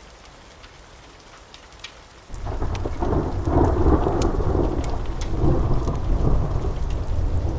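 Steady rain with scattered sharp crackles of a fireplace, then a thunderclap breaks in suddenly about two seconds in and rolls on as a loud, deep rumble that swells and ebbs through the rest.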